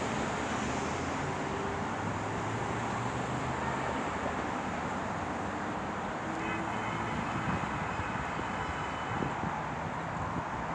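Road traffic at a level crossing: a steady rush of passing cars, their tyres and engines.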